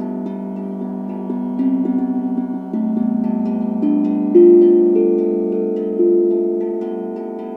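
Singing bowls struck one after another, each ringing on and fading slowly at its own pitch, some with a wavering beat, over a steady low hum. A new tone enters every second or two, the loudest about halfway through.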